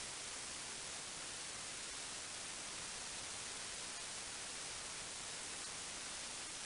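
Steady, even hiss with no other sound, like a recording's background noise.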